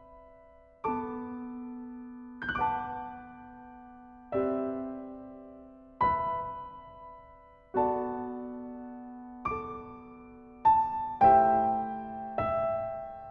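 Slow background piano music: soft chords struck about every one and a half to two seconds and left to ring out, coming closer together near the end.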